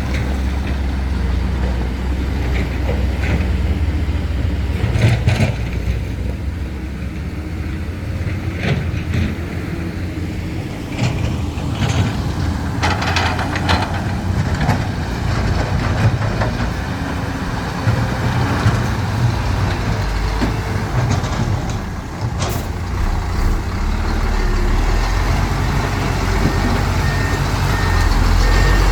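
Heavy diesel engines of dump trucks and excavators running with a steady low drone, with scattered knocks and clanks through it. A reversing alarm beeps steadily near the end.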